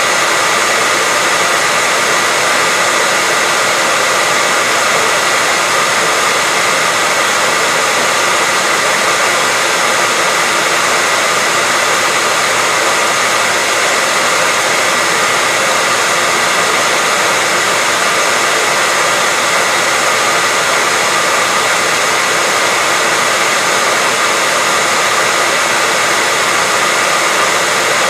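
Hair dryer running steadily: a loud, even whooshing hiss with a faint steady whine in it, with no change in speed.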